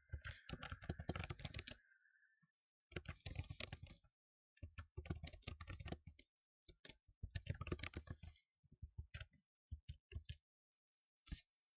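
Fast typing on a computer keyboard: rapid key clicks in four bursts of a second or two with short pauses between, thinning to a few single key taps near the end.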